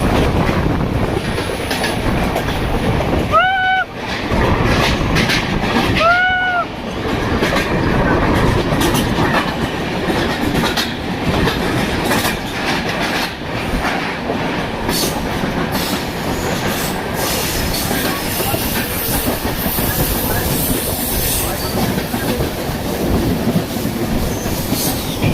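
Train running along the track: a steady heavy rumble with wheel clatter. Two short, pitched calls are heard, about three and a half and six seconds in.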